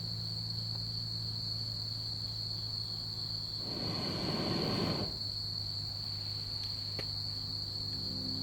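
A steady, high, unbroken insect trill like a cricket's, over a low steady hum, with a brief rush of noise about four seconds in.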